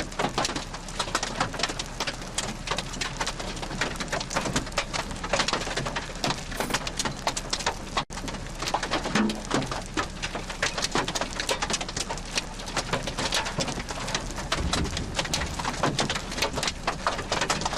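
Rain hitting hard and close, a dense, irregular run of drop impacts, with a brief dropout in the sound about halfway through.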